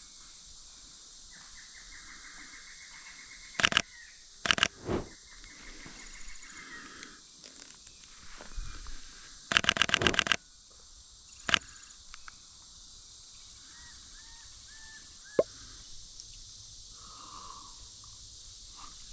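Camera shutter clicking in short bursts, a few single clicks and then a rapid run of about eight clicks, over a steady high-pitched hiss of rainforest insects.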